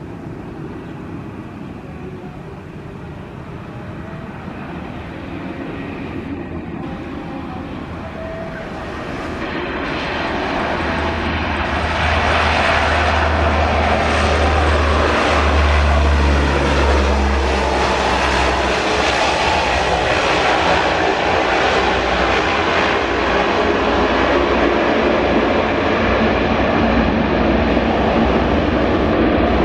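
Jet airliner engines, growing louder over about twelve seconds and then staying loud as the aircraft passes close by.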